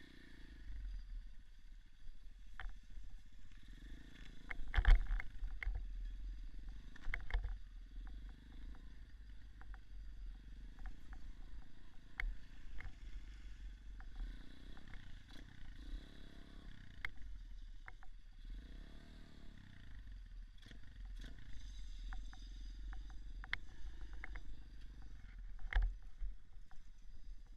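Small dirt bike engine running with the pitch rising and falling as the throttle changes, over a low rumble of wind buffeting, with scattered knocks and rattles from riding over rough ground; the sharpest knock comes about five seconds in.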